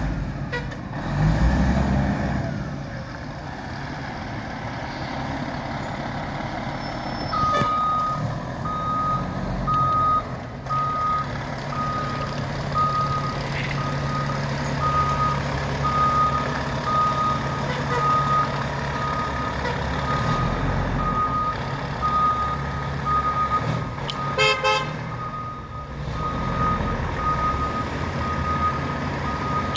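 Fire truck's engine running with its reversing alarm beeping steadily from about seven seconds in, a little over one beep a second.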